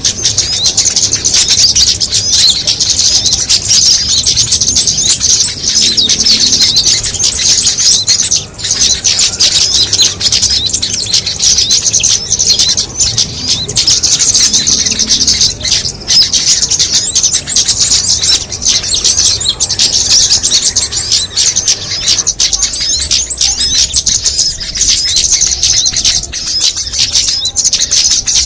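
Dense, unbroken twittering and chirping of many small songbirds at once, high-pitched and loud: a mixed small-bird lure recording played to draw in wild small birds.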